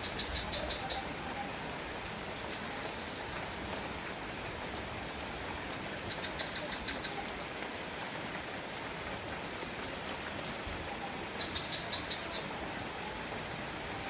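Steady rain falling, with scattered clicks of single drops. Three times, a brief run of rapid high-pitched chirps sounds over it.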